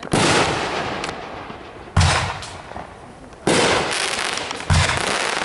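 Four firework bangs about a second and a half apart, each sudden and loud and dying away over a second or so.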